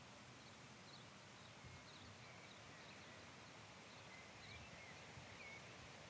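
Near-silent natural ambience with faint, scattered short bird chirps.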